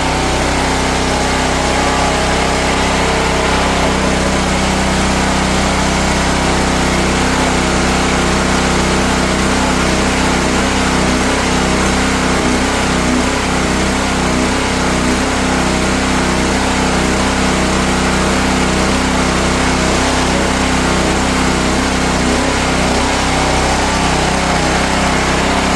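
Gas engine of a 4400 psi DeWalt pressure washer running steadily under its pump, at a constant speed. Water is coming out of the other hose instead of the gun's, a sign that the unloader valve is not yet adjusted right.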